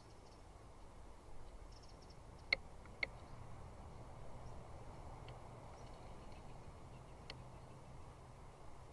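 Faint outdoor ambience from a nest-cam microphone: a steady low hum, faint high chirps from distant small birds or insects, and two sharp clicks about half a second apart a few seconds in.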